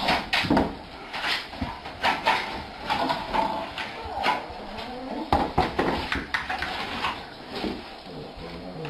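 A dog making short, irregular vocal sounds, some bending in pitch, among knocks and rustling.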